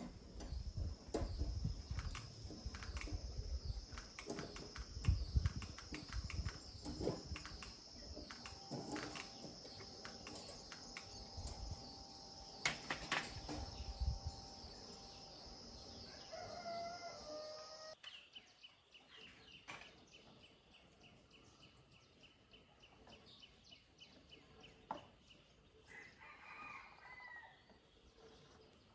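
A rooster crowing, heard twice as short wavering calls, once past the middle and again near the end. Under it are scattered clicks and knocks and a steady high-pitched whine that shifts pitch about two-thirds of the way through.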